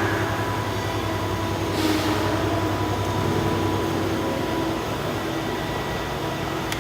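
Industrial machinery running steadily: a low pulsing hum with a few steady tones above it, and a short hiss about two seconds in.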